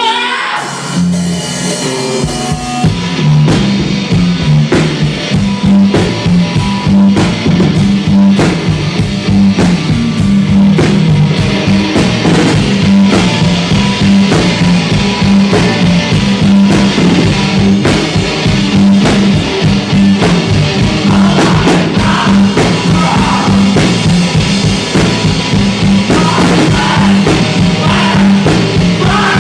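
Live rock band playing an instrumental passage: a drum kit kicks in about two seconds in and drives a steady beat under bass and electric guitar.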